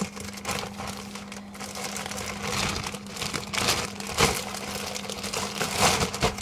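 Packaging of frozen pizza bites being handled: irregular crinkling and rustling, loudest about four seconds in and again near the end, over a steady low hum.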